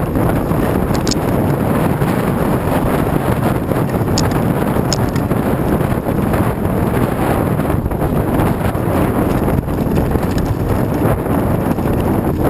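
Wind buffeting the microphone while riding, a steady loud rush with a few faint clicks.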